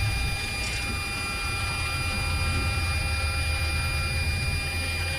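Airbus A330 on its takeoff roll at takeoff thrust, heard from the cockpit: a steady low rumble from the aircraft rolling down the runway, with the engines' steady high whine tones over it.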